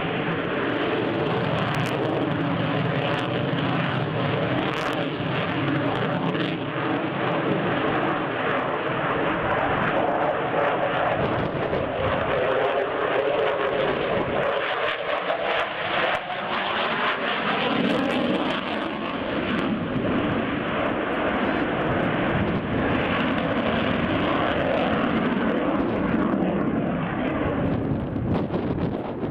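Airplane engine running steadily through a display pass, a continuous drone with several held tones that shift in pitch about halfway through as the aircraft goes by.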